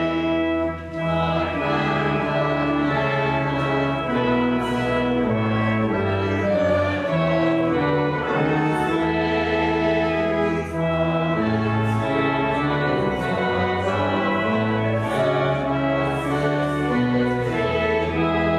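The church's newly rebuilt organ playing held chords that change about every second.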